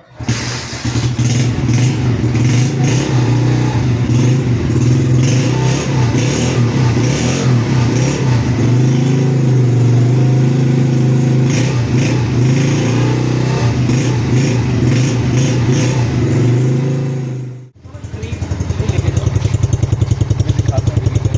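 Ghani 70cc self-start motorcycle's single-cylinder four-stroke engine running after being started. The sound drops out briefly about 18 seconds in, then comes back as a steady, even idle beat.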